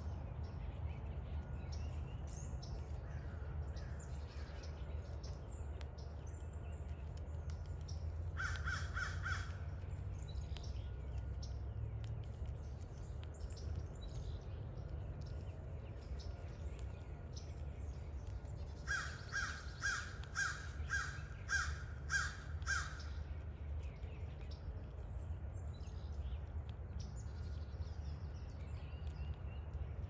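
A bird giving short, repeated calls: three together about eight seconds in, then a run of about eight between roughly 19 and 23 seconds. A steady low rumble runs beneath them.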